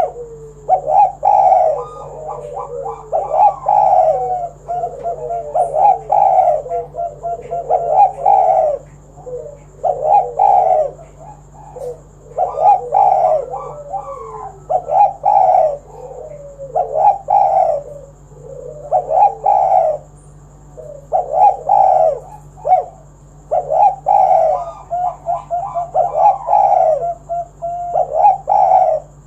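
Spotted dove cooing over and over, one call phrase every second or two with short pauses between.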